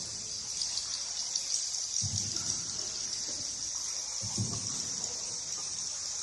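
Water sloshing about every two seconds, typical of paddle strokes, under a steady high chatter of bats.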